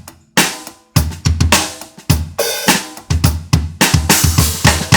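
Acoustic drum kit: a few separate hits, then about a second in a steady rock backbeat, bass drum on beats 1 and 3 and snare on 2 and 4 under hi-hats, with cymbals ringing.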